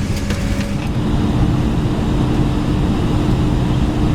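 Steady low hum and rumble inside the cabin of an Airbus A321 parked at the gate, its tone stepping up in pitch about a second in, with a few light clicks in the first second.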